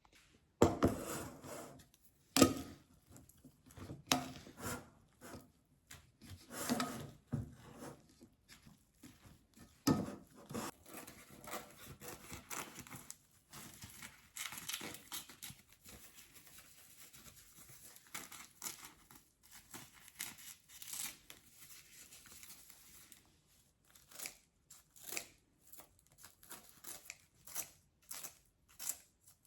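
Kitchen food-preparation sounds: scattered knocks of utensils and bowls, scraping and rustling of handled food or packaging, then a run of quick taps near the end.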